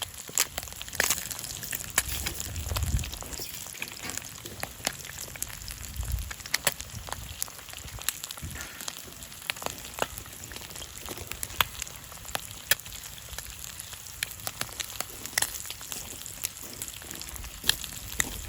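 Thick-cut bacon and eggs frying in a pan over a campfire: a steady sizzle with frequent sharp, irregular pops.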